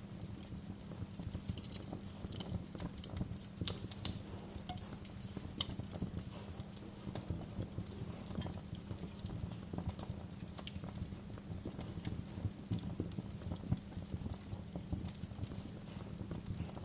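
Wood fire crackling in a fireplace: dense, irregular pops and snaps over a steady low rumble, with one sharper pop about four seconds in.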